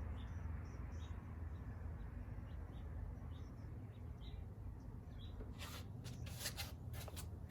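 Faint steady low hum with scattered short bird chirps, then a quick series of clicks and knocks near the end.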